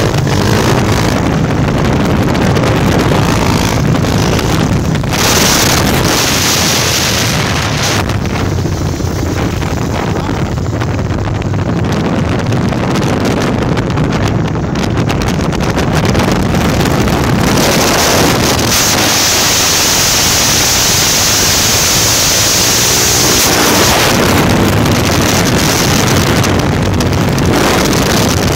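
Tornado 299cc motorcycle engine running at highway speed, with heavy wind buffeting the microphone.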